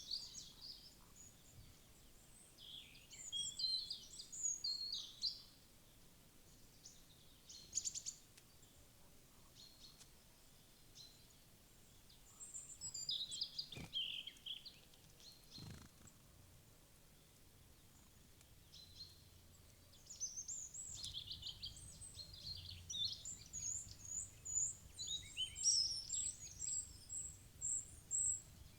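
Wild songbirds chirping and twittering in scattered bouts, with quieter pauses between, ending in a quick run of short high notes repeated about four times a second. A couple of faint knocks sound around the middle.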